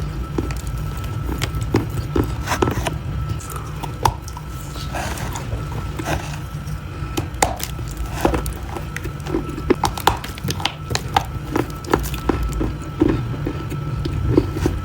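Close-up chewing of crunchy food: irregular crisp crunches and clicks, several a second at times, over a steady low hum.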